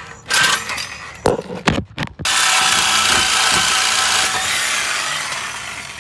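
A few knocks and scrapes, then about two seconds in a power tool starts cutting steadily through the car's exhaust pipe to take the muffler off, easing off slowly toward the end.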